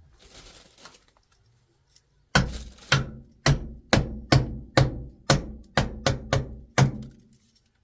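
A hammer driving a nail into timber: about a dozen hard blows at a steady two to three a second, each with a short metallic ring, stopping near the end.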